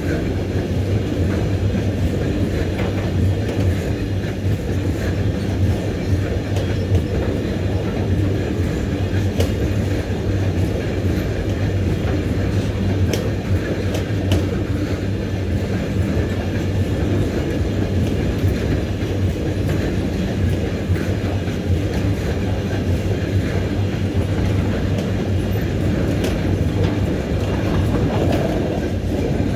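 Freight train of enclosed double-deck car-transport wagons rolling past at speed: a steady rumble of steel wheels on rail, with scattered clicks and clacks as the wagons' wheels pass over the track.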